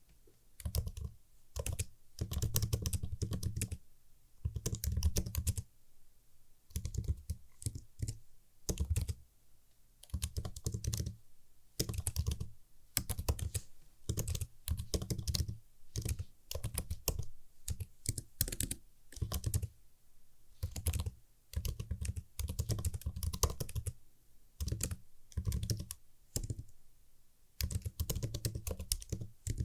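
Typing on a computer keyboard: crisp key clicks in quick runs of a second or two, broken by short pauses.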